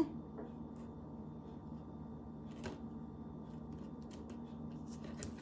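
Small clicks and light handling noises from working with gingerbread kit pieces, scattered and faint, with a few more near the end, over a steady low room hum.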